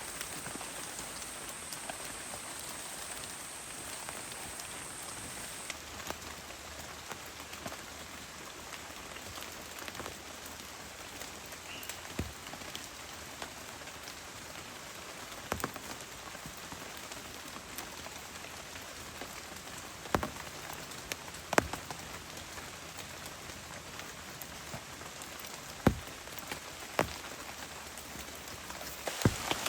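Steady rain falling, with scattered louder single drops striking close by every few seconds.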